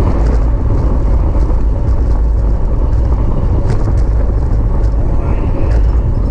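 Wind buffeting the microphone of a bike-mounted camera at racing speed: a steady, heavy low rumble, with a few faint clicks in the second half.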